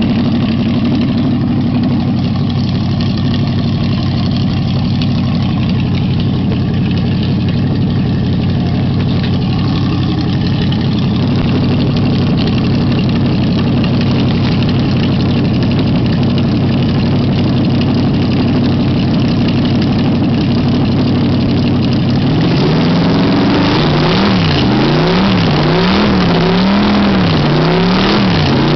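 Edelbrock-equipped Ford V8-60 flathead V8 race engine idling steadily. About two-thirds of the way through, it is blipped repeatedly, revving up and dropping back roughly once a second.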